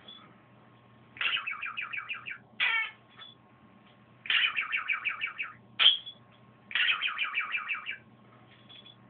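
Budgerigar making its odd signature call. Three trains of rapid pulsed chirps come at about seven a second, each lasting over a second. A sharp falling squawk follows each of the first two trains.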